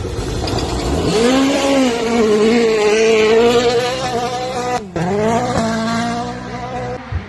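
Rally car engine revving up and held at high revs. There is a sharp momentary drop in pitch about five seconds in, like a lift or gear change, before it climbs again.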